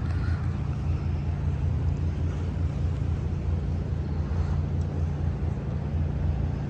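A steady low engine drone with a slight regular pulsing, over an even background rush.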